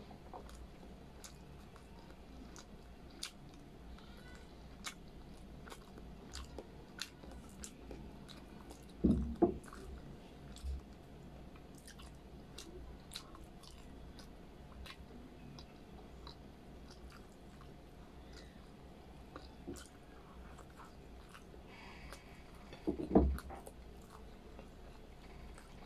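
Close-up mouth sounds of a person chewing braised pork belly and rice: soft wet chewing with many small smacking clicks. Two louder, short sounds stand out, about nine seconds in and again near the end.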